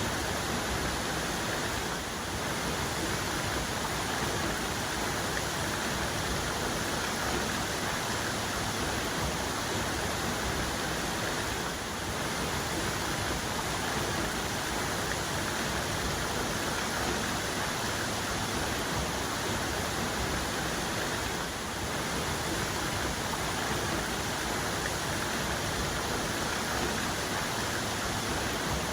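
Waterfall cascade: a steady, dense rush of falling water.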